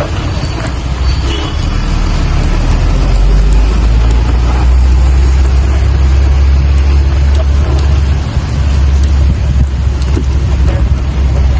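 Rain falling steadily, with scattered drop ticks, over a loud, deep rumble that swells about a second in and then holds.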